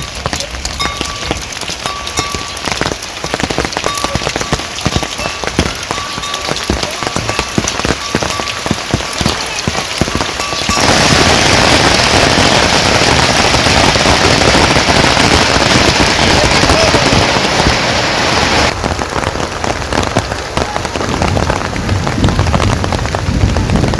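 Heavy rain falling, at first as a dense patter of separate drop hits. A little before halfway it changes abruptly to a louder, even rushing hiss of downpour, and near the end it turns back to individual drop hits.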